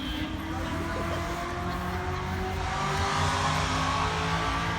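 Car engine running, its pitch rising slowly as it gathers speed, loudest about three seconds in.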